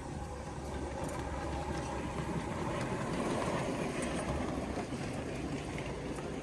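7½-inch gauge ride-on live steam train running along the track: a continuous rumble of wheels on rail, a little louder in the middle.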